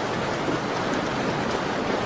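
Steady rain pattering on window glass, an even hiss of many drops with no breaks.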